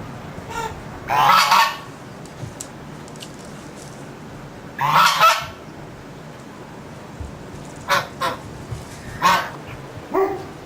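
Birds calling: two loud, harsh calls, one about a second in and one near the middle, then several shorter calls near the end.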